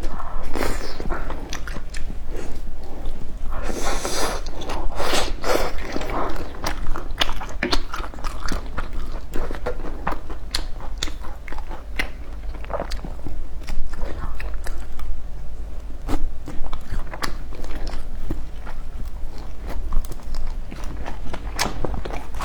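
Close-miked eating: a person biting into and chewing crunchy food, with dense crunches and mouth clicks, heaviest in the first six seconds.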